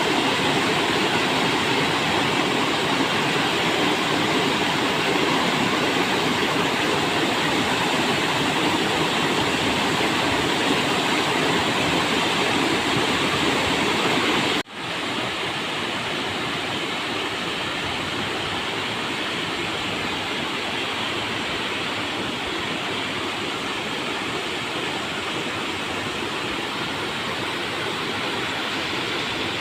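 River water rushing steadily over rocks. About halfway through the sound drops out for an instant, then goes on a little quieter, as at a cut between two recordings.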